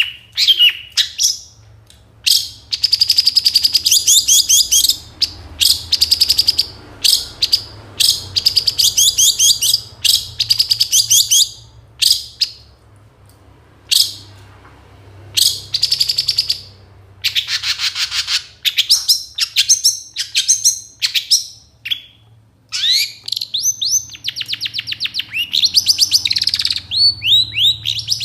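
Long-tailed shrike (cendet) singing a varied 'full isian' song packed with mimicked calls: short phrases of rapid, high chattering notes with brief pauses between them, and in the last few seconds a run of quick rising whistled sweeps.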